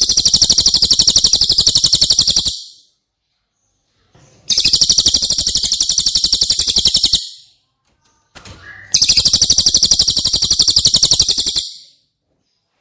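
Cililin bird song: three rapid, high-pitched trills of about two and a half seconds each, separated by short pauses.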